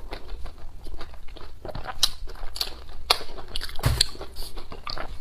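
Close-miked eating sounds: a person biting and chewing a mouthful of saucy braised food, with irregular wet smacks and clicks of the lips and mouth. A dull thump comes about four seconds in.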